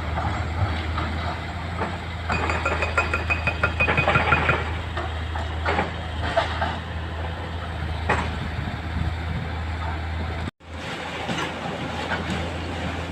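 Excavator's diesel engine running steadily, with sharp knocks and clatter of rock. A rapid, even rattle starts about two seconds in and lasts a couple of seconds. The sound drops out for a moment near the end.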